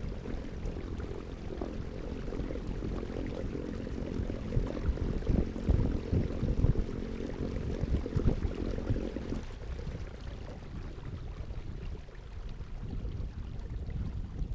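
Low rumbling water and wind noise from a kayak on the water, with a few louder knocks in the middle, easing off about two-thirds of the way through.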